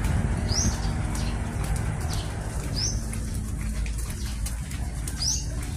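A bird repeating a short, high chirp several times, every second or two, over a steady low rumble.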